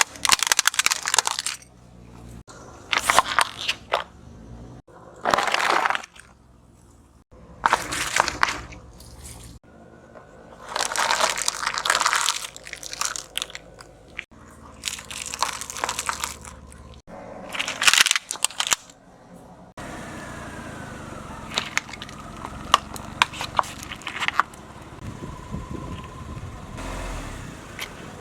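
Objects crushed under a car's tyre: a run of loud crunching, cracking bursts, each cut off abruptly, about nine in the first twenty seconds. After that comes a steadier noise with scattered sharp crackles.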